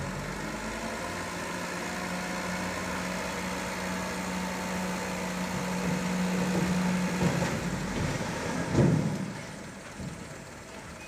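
Diesel dump truck engine running steadily. The steady tone stops about seven seconds in, and a short louder swell comes near nine seconds before the sound drops lower.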